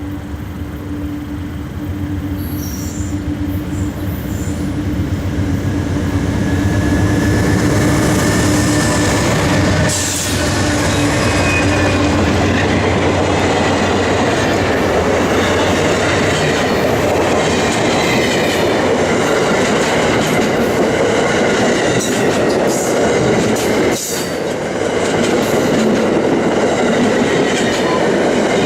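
A train passing close by: a low engine hum gives way, over the first several seconds, to the louder steady rumble and clatter of rolling cars, with faint thin wheel squeal.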